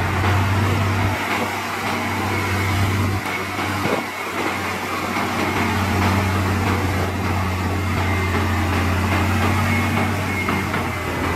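Heavy diesel engine running steadily under load with a low drone, the pitch stepping slightly about a second in and again about three seconds in.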